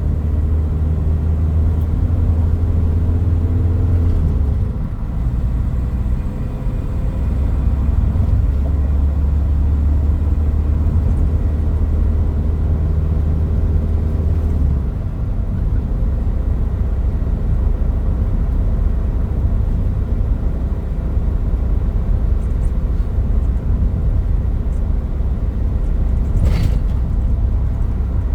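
Toyota Hilux Mighty-X pickup driving, its engine running with a steady low drone. The drone's pitch drops about four and a half seconds in and shifts again around fifteen seconds. A single sharp click comes near the end.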